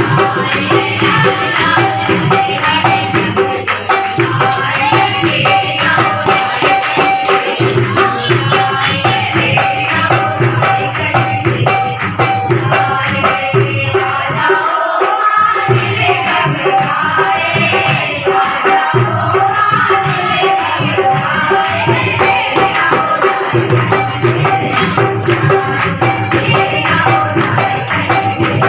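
Hindu devotional music: singing over steady jingling tambourine-like percussion.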